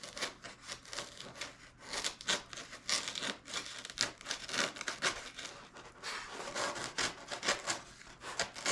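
Sharp chisel scraping and paring away cured expanding foam filler down to the balsa sheeting of a foam wing, in quick irregular strokes.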